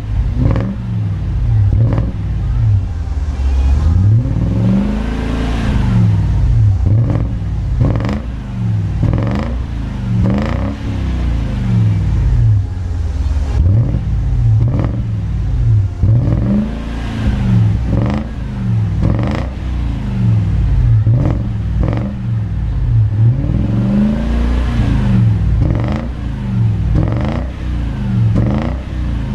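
Jaguar XJR's supercharged 4.2-litre V8 being revved repeatedly through a HE'ART aftermarket exhaust with end mufflers: a string of short throttle blips, the revs rising and falling about every second or two, with a few longer, higher rev sweeps between them.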